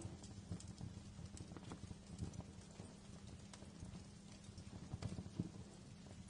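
Wood fire burning in a fireplace: irregular crackles and pops of varying strength over a low, steady rumble of flames.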